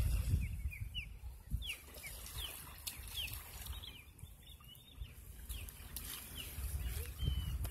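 A small bird calling: a run of short, downward-sliding chirps, about two a second, over a low rumble of wind on the microphone.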